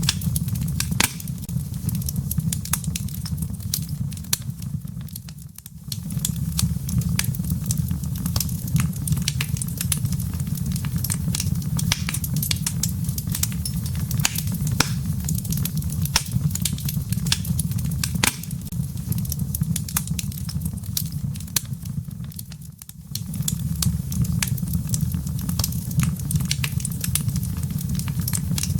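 Wood fire in a fireplace crackling over its embers: a steady low rumble of flame with frequent sharp crackles and pops. The sound dips briefly twice, near the start and near the end.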